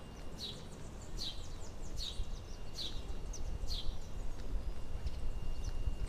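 A bird calling over and over: short, high chirps that drop in pitch, a little more than one a second, fading after about four seconds. A steady low rumble runs underneath.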